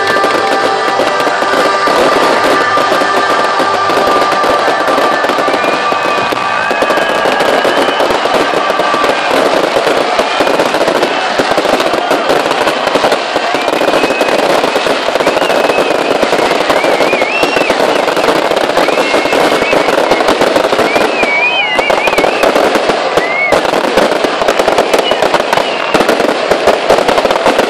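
A fireworks display crackling and banging in rapid, continuous volleys, with music holding long notes under it that fade out after the first several seconds. Short high whistles rise and fall now and then through the second half.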